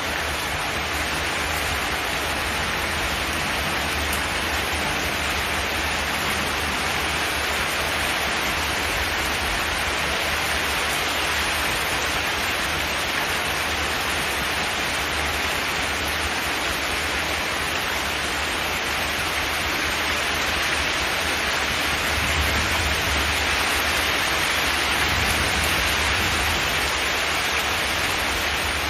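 Steady rain on a zinc metal roof: a dense, even hiss with a low rumble beneath it.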